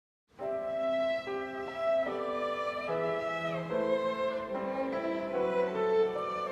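Instrumental introduction to a church choir anthem: held chords that change every second or so, starting about a third of a second in, with one downward slide in pitch around the middle.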